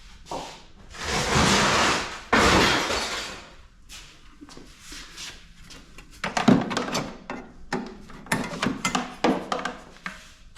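Sheet-metal scrap from an air-conditioning unit being handled: two loud scraping clatters in the first few seconds, the second starting sharply, then a run of irregular knocks and clinks.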